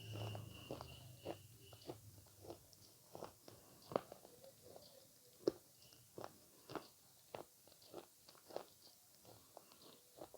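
Close-miked chewing of avocado: a string of sharp, irregular mouth clicks, about two to three a second.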